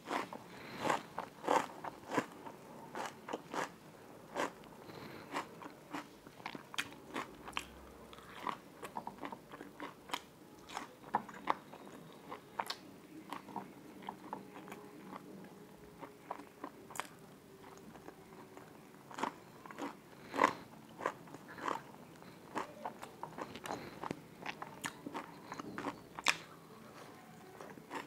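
Close-miked eating: biting and chewing crunchy food, raw onion slices and green chillies with puri, with many sharp, irregular crunches.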